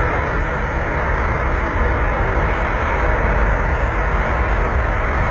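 Steady roar of tornado wind with heavy wind rumble on the microphone, loud and unbroken.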